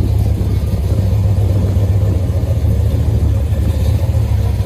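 Cammed 5.7 HEMI V8 breathing through long tube headers and Flowmaster Super 44 mufflers, running steadily with a loud, low, choppy rumble.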